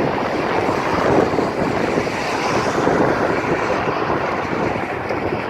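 Strong storm wind gusting and buffeting the microphone.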